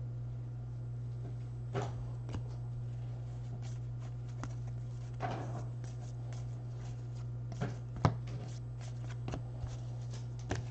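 Trading cards being handled and slid against each other: scattered soft brushes and light taps over a steady low hum.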